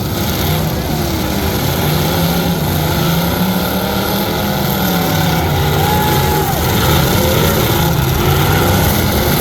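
Truck engine running hard, its pitch rising and falling as the throttle changes.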